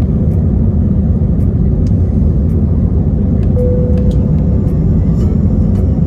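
Cabin noise inside an Airbus A319: a loud, steady low rumble of engines and airflow, with faint scattered clicks and a brief single tone about halfway through.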